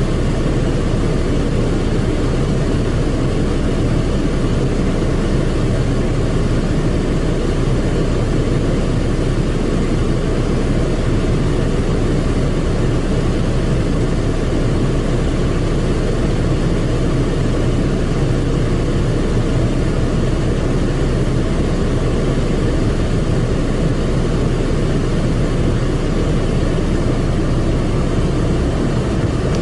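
Automatic car wash machine running, heard from inside the car's cabin: a loud, steady rumbling rush that does not let up.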